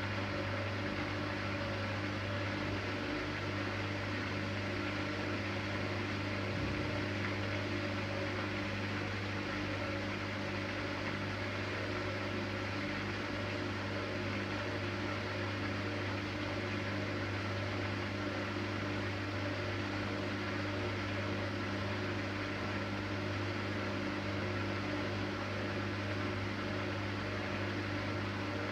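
Siemens Siwamat iQ 716 washing machine running with a steady motor hum and whirr.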